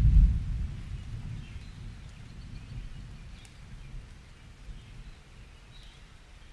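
A rumble of thunder, loudest at the start and fading away over the next few seconds, under a steady hiss of rain, with faint bird chirps.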